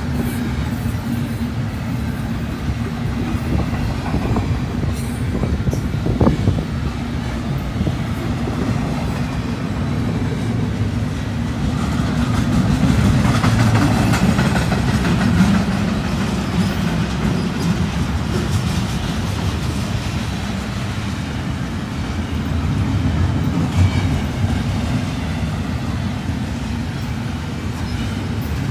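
Double-stack intermodal freight train's container well cars rolling past at speed: a steady rumble of steel wheels on the rails with clickety-clack. It swells for a few seconds around the middle.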